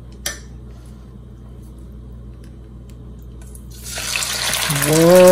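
Marinated quail lowered into hot oil in a non-stick frying pan, setting off a loud sizzle about four seconds in that keeps going. Before that the stretch is quiet apart from one click near the start.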